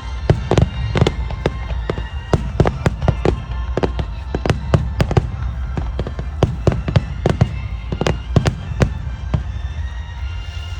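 Fireworks display: a rapid barrage of sharp bangs and crackles, several a second, over a continuous low rumble of bursts.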